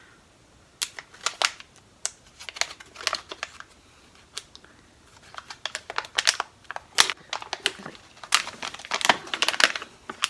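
Packaging crinkling and crackling in the hands as a small product package is worked open. Sharp irregular crackles come sparsely at first and grow dense and busy over the last few seconds.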